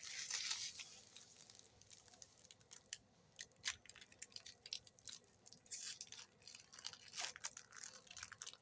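Foil trading-card booster pack wrappers crinkling and tearing, with scattered small crackles and clicks, denser in the first second.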